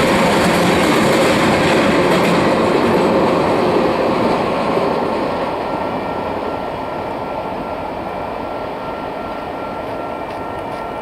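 Freight cars of a Union Pacific manifest train rolling past, the steady rumble of wheels on rail fading away from about four seconds in. A faint steady high whine carries on after the rumble drops.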